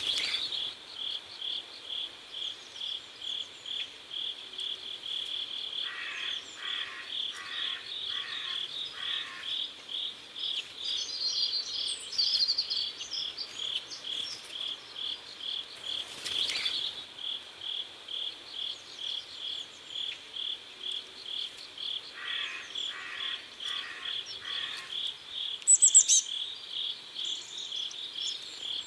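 Crickets chirping steadily, about two to three chirps a second, with a second insect or frog giving two runs of five slower, lower calls. A bird chirps a few times, loudest once near the end.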